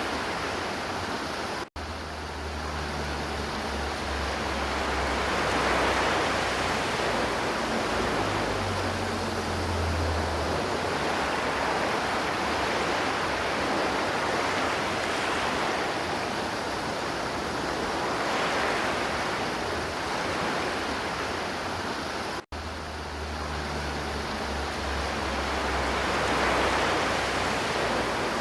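River water flowing and rushing steadily, swelling and easing every few seconds, with a low rumble coming and going underneath. The sound cuts out for an instant twice, about two seconds in and again some twenty seconds later.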